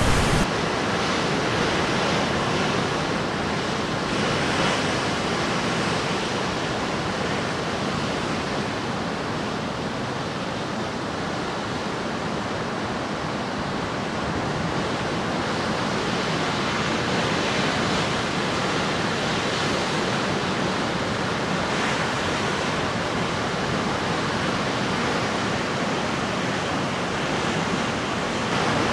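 Caribbean Sea surf breaking on the shore: a continuous wash of crashing waves that swells and eases over several seconds at a time.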